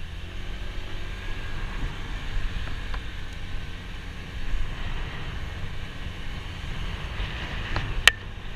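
Motorcycle engine running while riding, with wind buffeting the helmet-mounted camera microphone. A sharp click near the end.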